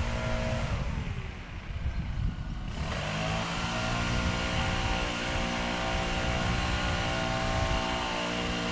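A motor running steadily with several even tones, slowing with a falling pitch about a second in and coming back up to speed just before three seconds.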